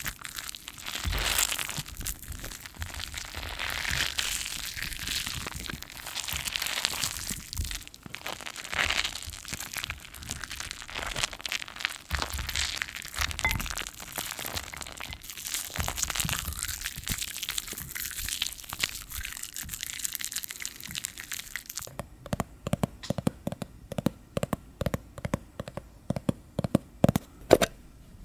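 Close-up ASMR sound of hands working foamy soap lather, a wet crackling and squishing. About six seconds before the end the crackling texture stops and gives way to a run of separate sharp clicks.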